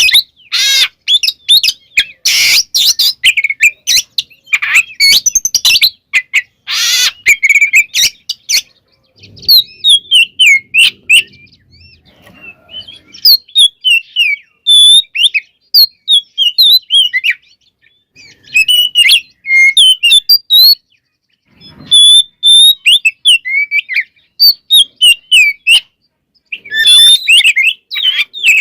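Oriental magpie-robin singing a varied, loud song. It opens with harsh, rasping notes for the first several seconds, then runs of quick whistled notes that sweep up and down, in bursts separated by short pauses.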